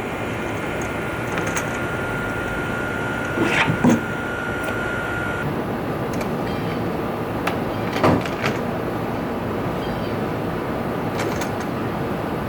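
Steady rushing noise with a thin, steady high tone through the first half, and a few short knocks about four and eight seconds in.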